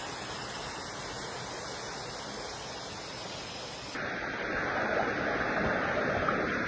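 Waterfall's falling water rushing steadily. About four seconds in the sound switches abruptly to a louder, duller rush.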